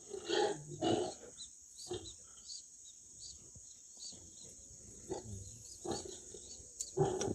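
Pigs grunting off and on: several short grunts, the loudest near the start and again near the end.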